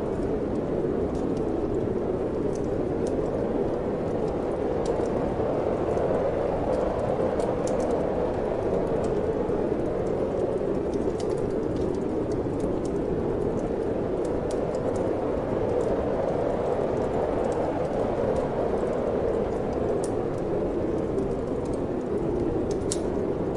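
Steady wind blowing, with sparse crackles and pops from a wood fire in a fireplace; one sharper pop near the end.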